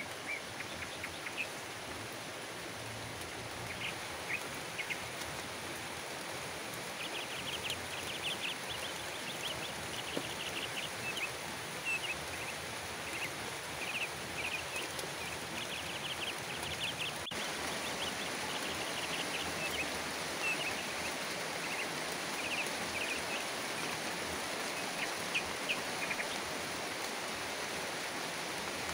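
Steady rain falling on garden plants and leaves. Birds chirp in quick runs of short notes through the middle.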